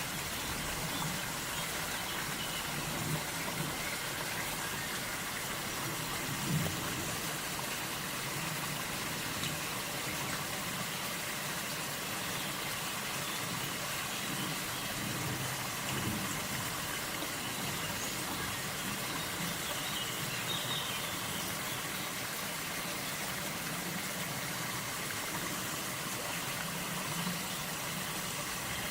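River water rushing and flowing in a steady, unbroken wash.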